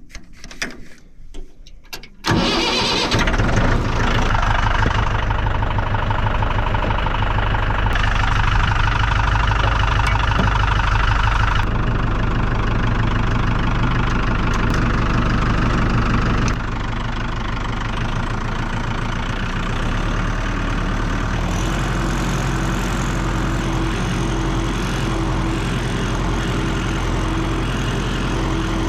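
Tractor engine starting after about two seconds, catching at once, then running steadily; about halfway through it drops to a lower, quieter steady run.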